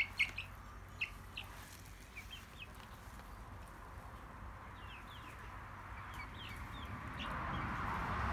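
Birds chirping: many short, high chirps scattered through, over faint outdoor background noise that swells near the end.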